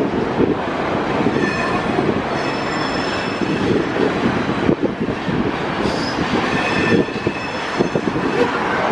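Canadian Pacific double-stack container train rolling past on curved track, its cars giving a steady rumble. High wheel squeal comes in twice, about a second and a half in and again around six seconds in.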